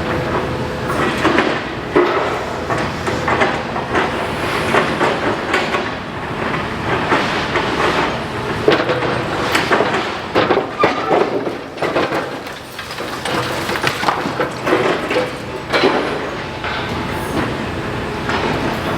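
Demolition excavator at work: its diesel engine runs under a dense, irregular run of clanks, knocks and crashes as masonry and metal are broken and fall.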